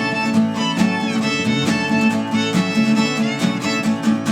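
Live band playing an instrumental passage between sung lines, with a steady beat and a melody line that slides up and down in pitch.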